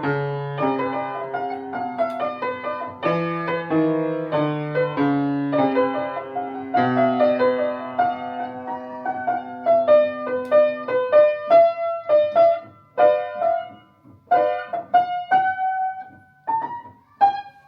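Solo piano music: chords under a slow melody, thinning to sparse single notes in the second half.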